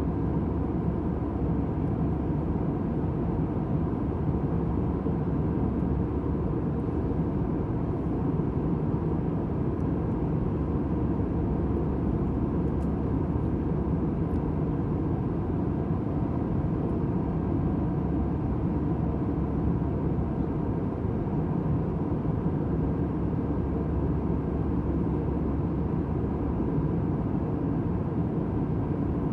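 Airliner cabin noise in flight: a steady, low rushing noise with a faint even hum, unchanging throughout.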